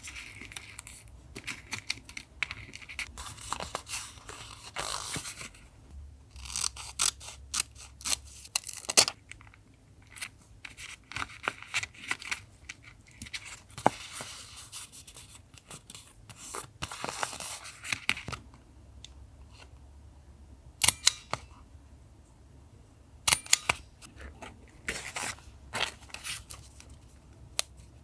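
Paper collage crafting: scissors snipping, paper rustling and tearing, with scattered sharp clicks and taps between quieter pauses.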